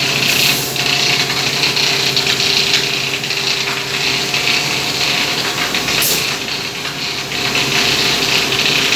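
PET plastic extruder machine running: a steady mechanical drone with a few constant hum tones over a dense hiss. Brief high hisses come about half a second in and again about six seconds in.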